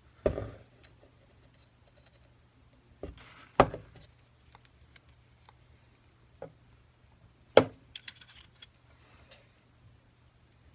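Metal jeweler's tools and a third-arm soldering stand being handled on the soldering bench: a few separate sharp knocks and clicks, the loudest about a third of the way in and again about three quarters of the way in.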